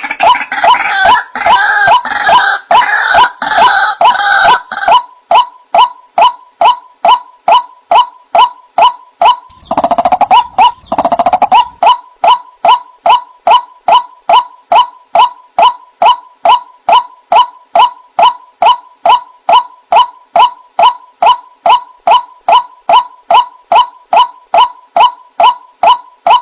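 White-breasted waterhen (ruak-ruak) calling: a long, loud series of evenly repeated "kwak" notes, about two a second. A denser, faster chattering passage runs through the first five seconds and comes back briefly around the middle.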